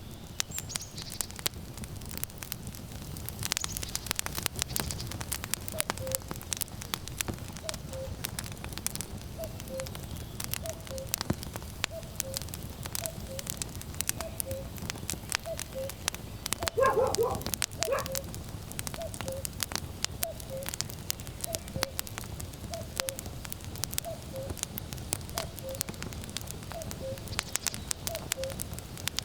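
Burning firewood crackling and popping over a low rumble, with a common cuckoo calling its falling two-note 'cuck-oo' over and over, about once every second and a half, from a few seconds in. Just past the middle comes one louder, fuller call.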